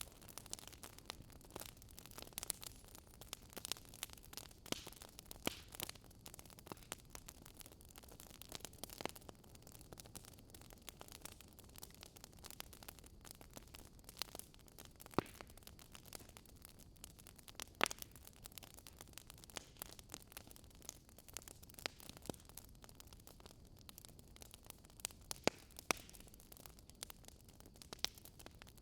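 Wood fire crackling: irregular pops and snaps over a soft steady hiss, with a few louder snaps, one about 18 seconds in.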